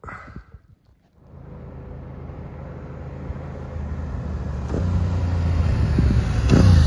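Motorcycle approaching along a dirt road, its engine and tyre noise starting about a second in and growing steadily louder as it nears.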